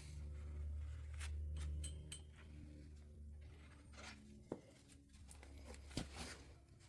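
Plastic spreader scraping body filler across a fiberglass panel in short, irregular strokes, the filler stiff and dragging from the cold, over a steady low hum.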